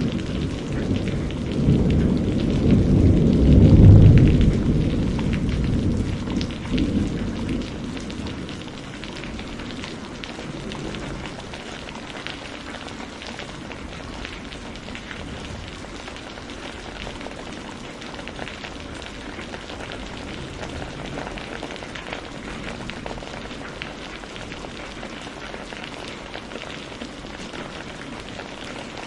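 Steady rain falling, a constant hiss with fine patter of drops. A rolling low rumble of thunder fills the first several seconds, loudest about four seconds in, and dies away by about eight seconds.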